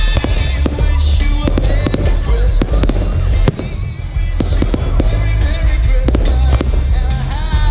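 Aerial fireworks display: a rapid, irregular run of sharp bangs and crackles over deep booms, with music playing underneath.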